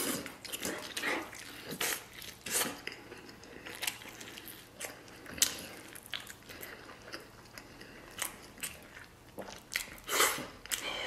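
Close-miked biting and chewing as stewed lamb rib meat is torn off the bone with the teeth and chewed, in irregular short smacks, loudest about ten seconds in.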